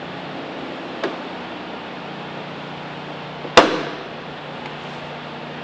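A single sharp bang with a short ring about three and a half seconds in, over a steady background hum, with a light click about a second in.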